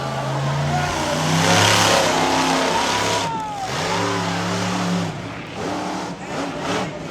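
Cyclops monster truck's engine revving in several pushes, its pitch rising, holding and dropping back between them, loudest about a second and a half in.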